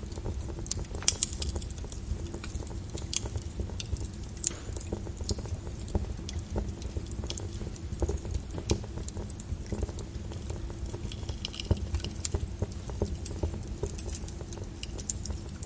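Wood fire crackling in a fireplace: irregular pops and snaps of burning logs, some sharp and loud, over a steady low rumble of the flames.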